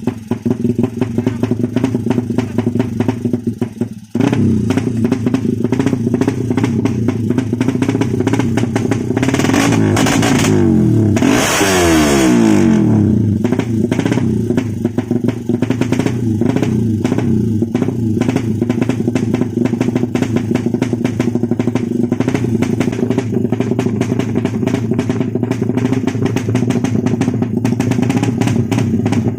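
Race-tuned Suzuki Satria FU single-cylinder engine, ported and enlarged to about 200 cc, running steadily at a fast idle. It is revved up about ten seconds in, and the pitch slides back down to idle a few seconds later.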